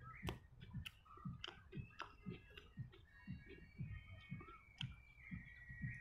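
Close-up chewing of fried onions, egg and steamed bun with the mouth, a soft regular chewing about three times a second, broken by several sharp wet clicks.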